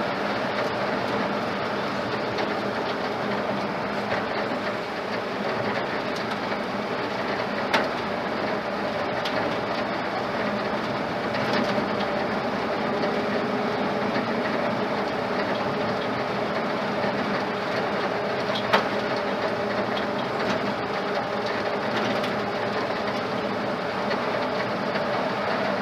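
Ford flathead engine running steadily at cruise, heard from inside the truck's cab along with road and rattle noise. Two short sharp clicks stand out, one about a third of the way in and one near three quarters.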